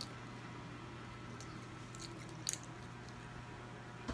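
A child chewing a mouthful of pizza: faint chewing with soft mouth clicks, one a little louder about two and a half seconds in, over a low steady hum.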